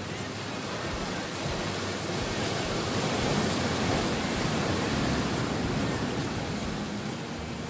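Sea surf washing onto the shore: a steady rushing noise that swells about three seconds in and eases off again.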